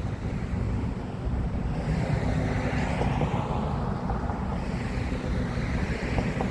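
Low rumbling wind buffeting the microphone, with a hiss that swells about two seconds in and again near the end.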